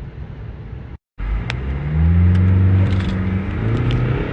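BMW 520d's B47 four-cylinder turbodiesel under hard acceleration: a low rumble, a sudden cut about a second in, then a strong engine note that rises in pitch as the car pulls.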